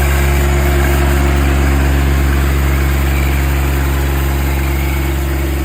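John Deere 2025R compact tractor's three-cylinder diesel engine running steadily.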